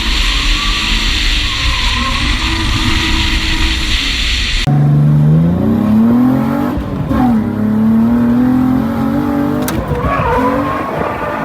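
Drift car on track: steady loud engine and tyre noise, then after an abrupt cut about five seconds in, a car engine revving up and down, its pitch rising and falling over and over.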